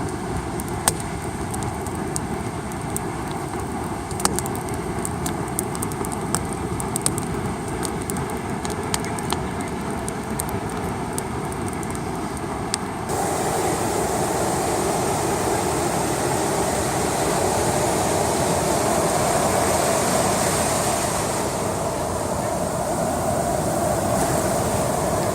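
Campfire crackling, with irregular sharp pops and snaps over a steady rushing background. About halfway through the crackling stops abruptly and a louder, even rush takes over.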